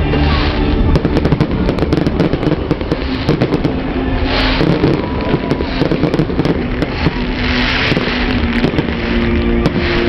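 Aerial fireworks going off in rapid, continuous succession: many sharp bangs and crackles, with two swells of hissing rush about four and eight seconds in. Music plays underneath.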